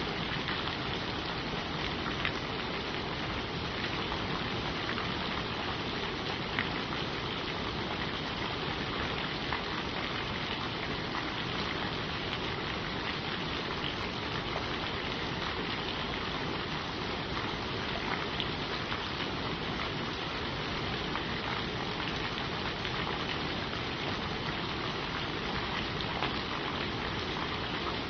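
Steady rain falling on leaves, an even hiss with scattered individual drop ticks.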